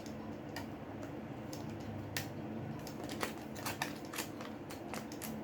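Irregular small sharp clicks and taps of tools and plastic on a smartphone being taken apart, over a faint steady hum.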